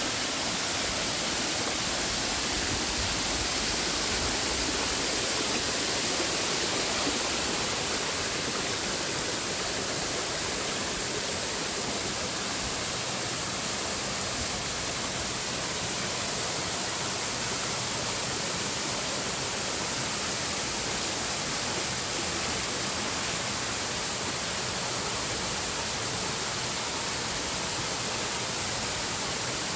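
Waterfall cascades: a steady, even rush of falling water.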